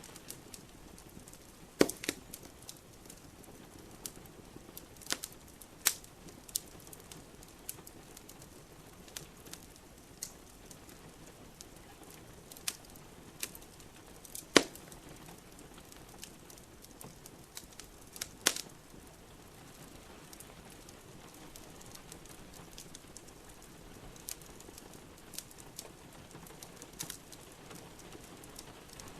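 Wood fire crackling in a fireplace, with sharp pops and snaps at irregular intervals, a few of them loud, over a steady hiss of rain.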